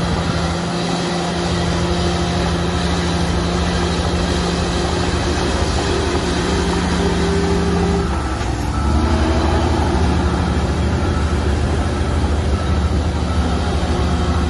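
Heavy diesel construction machinery running steadily. About eight seconds in, the engine note dips briefly, then comes back deeper and slightly louder.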